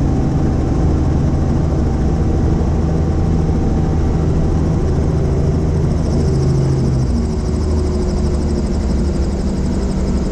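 Helicopter engine and rotor running steadily, a constant low rumble under a stack of steady tones. About six to seven seconds in, a higher whine comes in and the pitch of the low tones shifts.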